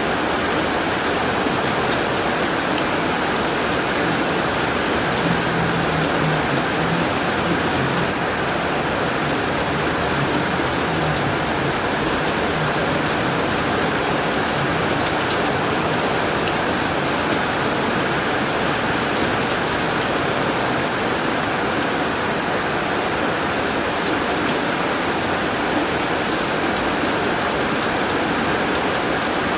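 Heavy rain falling steadily on a tin roof: a dense, even patter.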